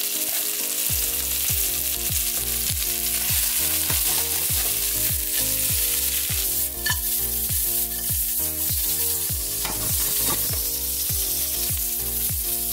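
Julienned carrots sizzling in hot oil in a nonstick wok, stirred with a silicone spatula, the steady hiss of stir-frying.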